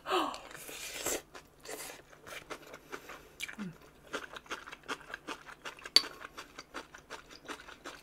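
A person chewing and crunching food close to the microphone: many quick, irregular crackles and clicks.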